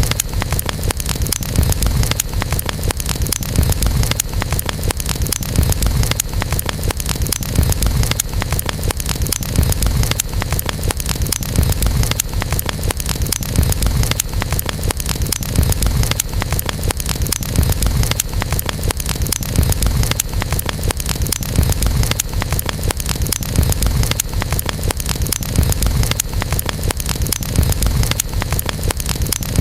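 Campfire burning, with dense crackling over a steady low rumble.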